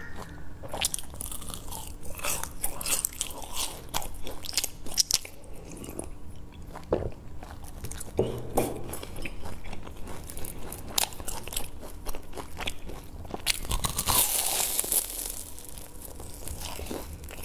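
Close-up crunching and chewing of a fried sesame ball (ma tuan), its crisp sesame-seed crust crackling between the teeth in many sharp little clicks. A louder, longer crunch comes about fourteen seconds in as she bites into the whole ball.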